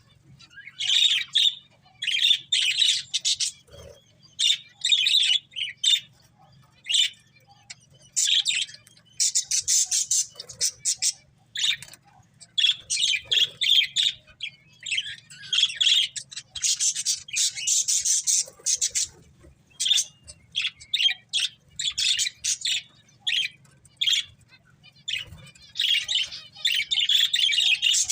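Budgerigars chirping and chattering in quick bouts of short, high chirps and squawks with brief pauses between.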